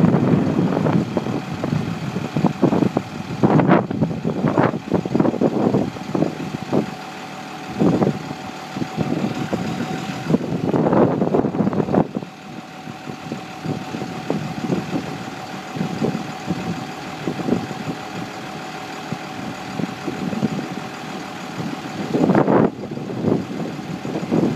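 Spotter yard truck's engine running, with uneven surges in level. A steady high-pitched tone sounds through the middle stretch.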